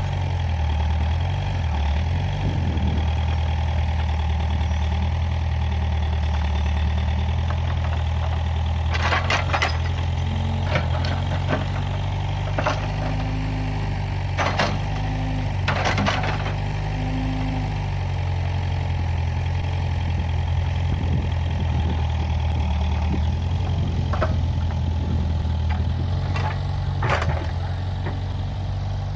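Case 580G backhoe loader's engine running steadily, with several short sharp knocks, most of them in the middle and one near the end.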